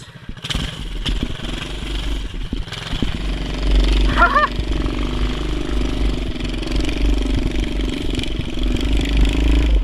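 Mini bike's small engine running steadily, with a short high call about four seconds in.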